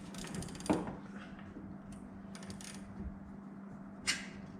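Torquemaster Plus spring winder on a garage door clicking as its spring tension is backed off, the gear teeth releasing one click at a time: short quick rattles of ticks and two sharper clicks, about a second in and near the end, over a steady low hum.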